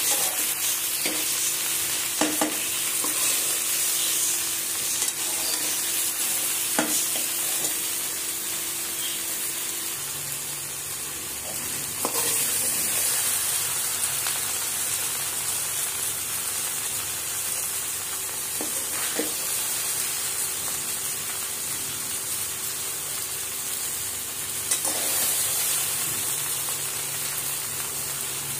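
Chopped okra and onion sizzling in oil in a metal pan, stirred with a slotted steel spatula that now and then clicks and scrapes against the pan.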